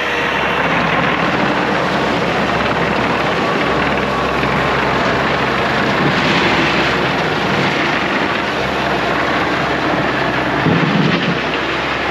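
Mecalac excavator-loader's diesel engine running steadily while the machine works, with a brief louder rise near the end.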